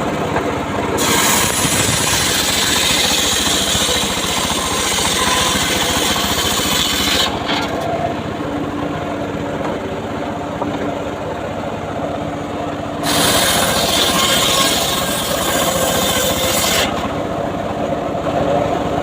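Homemade engine-driven circular saw cutting mahogany. The motor runs steadily throughout, and the blade goes through the wood twice: from about a second in for some six seconds, and again from about thirteen seconds for about four seconds. Each cut is a loud, harsh sawing noise over the running motor.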